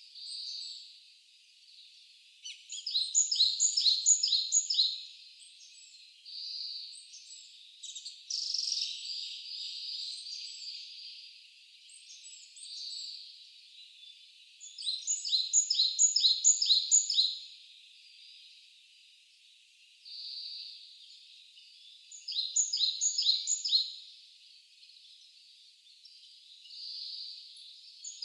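Wild songbirds singing: one bird repeats a short song of five or six quick, bright notes three times, several seconds apart, with shorter calls from other birds in between.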